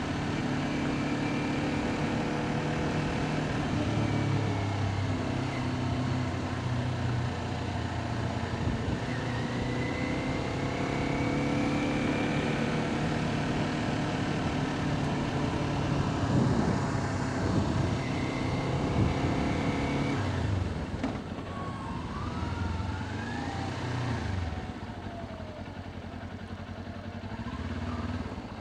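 Kawasaki Ninja 400's parallel-twin engine running under way, its revs stepping up and down, with road noise around it. It gets somewhat quieter near the end.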